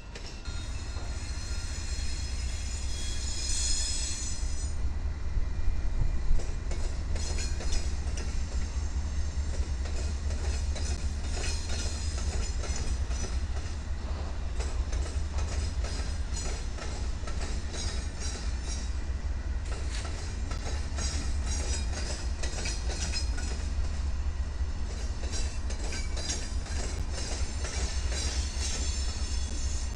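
Freight train diesel locomotives passing close by: a steady low engine rumble with wheels clacking over the rail joints. Stretches of high-pitched wheel squeal, strongest a few seconds in.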